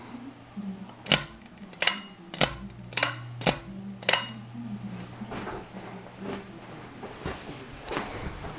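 Ceiling fan pull-chain speed switch being pulled to change to medium speed: a run of about six sharp clicks with metal chain clinks, close together over about three seconds, over the fan motor's steady low hum.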